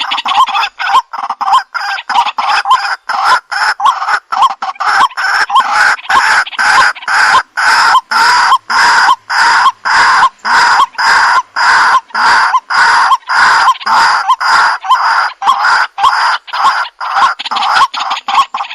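Waterhen (jal murgi) calling: a long unbroken series of loud, harsh notes repeated about two to three a second, the bird-trapping call of this rail.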